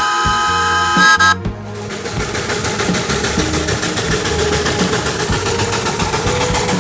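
A steam locomotive's whistle sounds a steady multi-tone chord for about a second and a half, then cuts off abruptly. A steady noise with a fast, even pulse follows.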